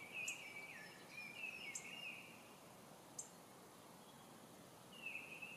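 Faint songbird chirping: short warbling phrases in the first two seconds and again near the end, with a few brief high peeps in between.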